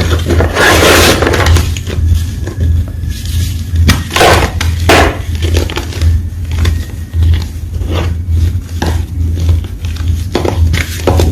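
Fresh white gym chalk being crunched: a run of sharp, crisp crunches and crumbling at irregular intervals, over a steady low hum.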